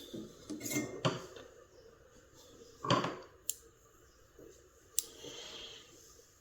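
Small metal hand tools being handled and set down on a work surface: a few clicks and knocks, the loudest about three seconds in, with two sharp ticks after it.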